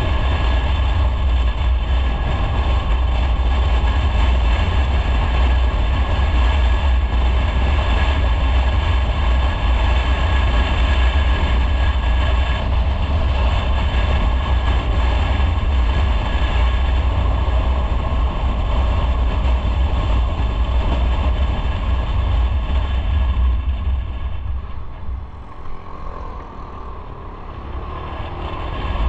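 Motorcycle on the move: engine and a heavy wind rumble on the microphone, steady, dropping for a few seconds near the end.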